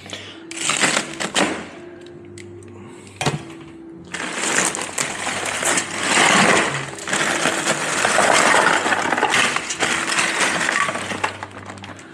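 Ice cubes being tipped into a cooler of drinks: a few sharp clinks and clatters first, then from about four seconds in a long, dense rattle and crunch of ice pouring and shifting against the cans.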